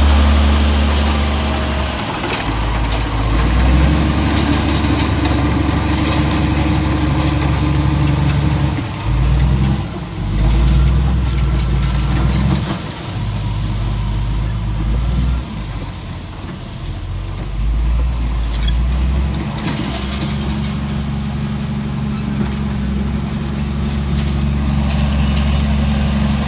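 Heavy diesel engine of earthmoving machinery running, its low note shifting up and down several times as it works.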